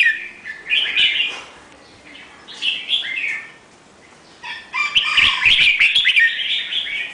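A songbird chirping and singing in short bursts of quick high notes, with a longer run of song about two-thirds of the way through.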